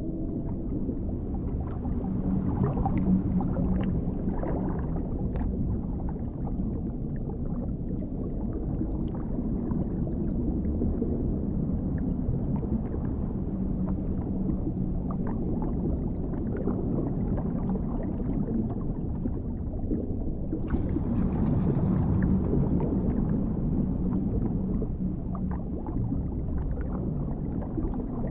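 Underwater ambience: a dense, muffled low rumble with scattered bubbling and gurgling and a faint low drone. About three-quarters of the way through, a brighter hiss comes in suddenly over it.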